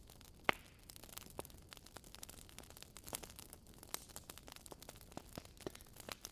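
Wood fire crackling in a fireplace: irregular small pops and snaps over a soft hiss, with one louder pop about half a second in.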